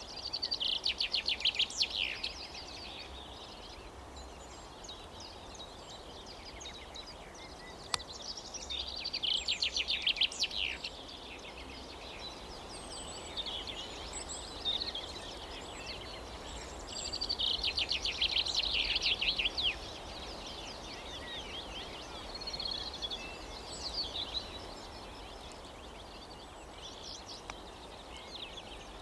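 Songbirds singing: fast trilled phrases about two to three seconds long come back every several seconds, with shorter calls in between, over a steady low background noise. A single sharp click comes about eight seconds in.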